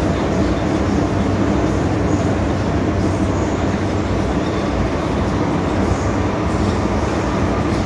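MTR M-Train electric multiple unit running at speed, a steady rumble of wheels on rail with a low motor hum.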